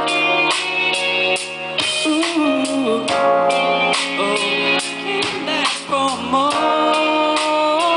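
Pop ballad sung live by a male singer over a backing track, the voice holding long notes that bend and waver in pitch.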